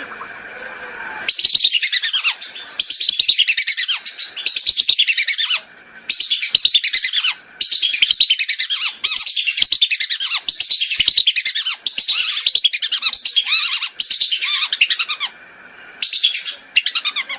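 Whistling ducks calling: rapid, overlapping high whistles that fall in pitch, in bursts of a second or so separated by short pauses, starting about a second in.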